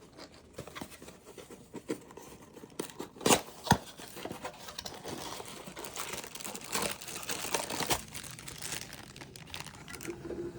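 Plastic packaging crinkling and rustling as small parts are handled and unwrapped, with many small clicks and two sharp knocks a little over three seconds in.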